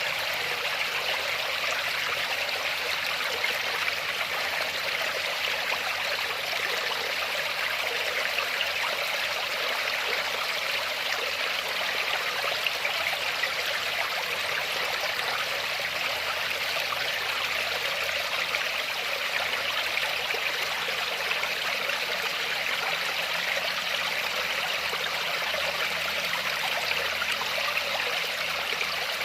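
Waterfall: a steady rush of falling, splashing water, bright and hissy with little low rumble, unchanging throughout.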